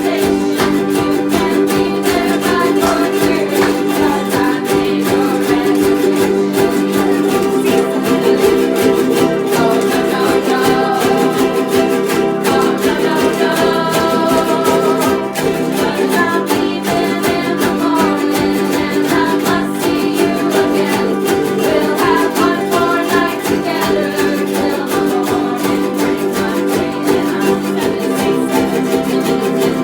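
Music: ukulele strumming chords in a steady, even rhythm.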